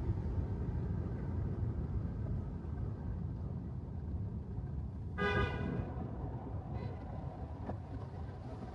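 Steady low road rumble of a car driving on wet city streets, with one short car-horn honk a little past halfway through.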